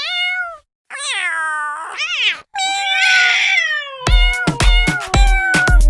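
A cat meows several times in long, pitch-bending cries. About four seconds in, electronic music with a heavy, regular bass beat starts up underneath.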